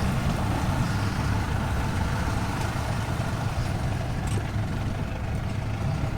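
Off-road vehicle's engine running steadily under way, a low, even rumble.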